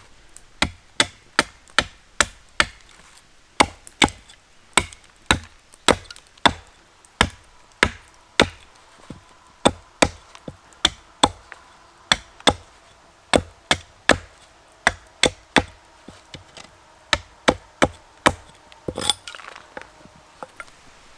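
Firewood being chopped: a long, even run of sharp blows on wood, about two a second. The blows stop about two seconds before the end, giving way to a brief, rougher sound.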